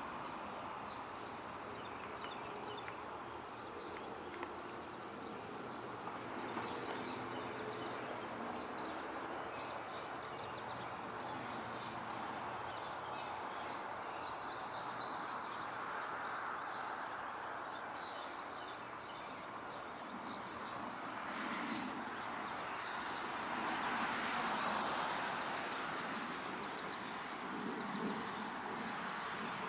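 Distant train noise growing somewhat louder in the last few seconds, with faint birdsong.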